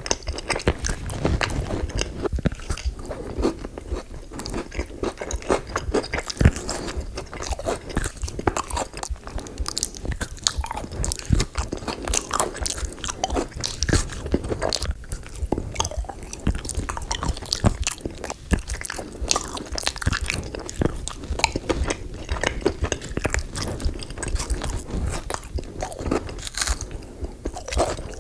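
Close-miked eating: someone biting into and chewing crunchy sweet food, a rapid, unbroken run of crisp crunches and wet mouth clicks.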